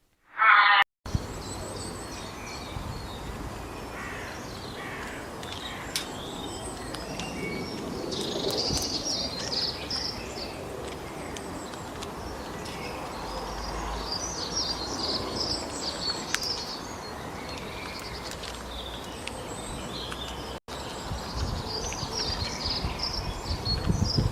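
Several birds chirping and calling over a steady outdoor background hiss, with a brief loud burst in the first second.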